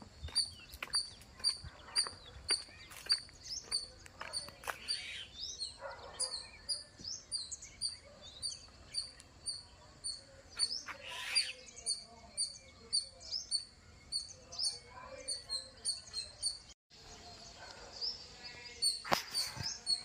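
A bird chirping one short, high note over and over, about three times a second, with other faint calls and rustles around it.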